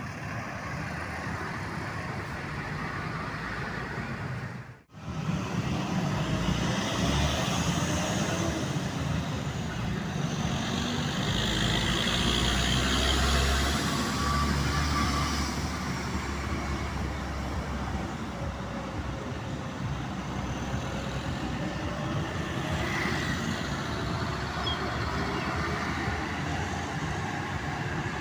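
Road traffic with heavy trucks and buses passing; a big diesel vehicle's low engine rumble swells and fades in the middle. The sound cuts out for a moment about five seconds in.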